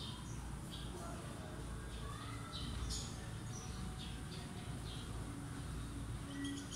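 Small birds chirping now and then, short high chirps, over a steady low background rumble.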